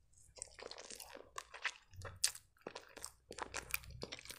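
A person biting into and chewing a piece of crumb-topped cherry-and-vanilla strudel, making soft, irregular crunches and mouth clicks.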